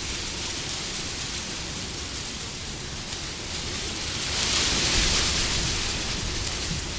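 Wind blowing steadily, swelling into a stronger gust about four to five seconds in, then easing back.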